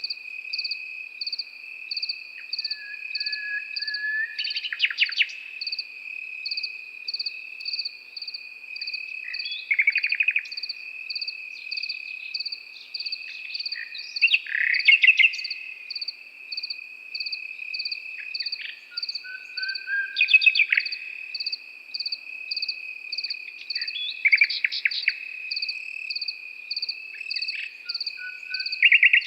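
Crickets trill steadily, with a regular pulsing chirp above them. Over this a nightingale sings a short phrase of rapid repeated notes every few seconds.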